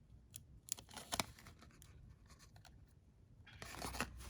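A few faint taps, then a cat scratching and rummaging about inside a cabinet, the scratching rising near the end.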